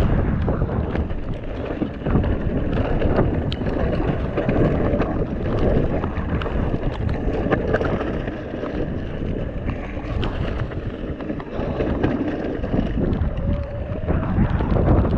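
Wind buffeting the microphone on a fast mountain-bike descent, with the bike's tyres and frame rattling and knocking over a wet, muddy trail.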